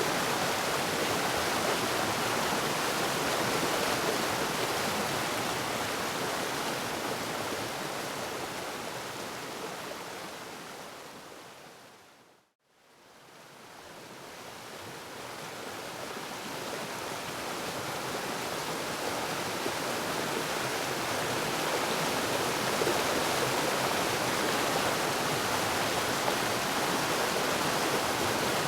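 Steady rushing of a waterfall, an even wash of water noise that fades away to silence about twelve seconds in and fades straight back up again.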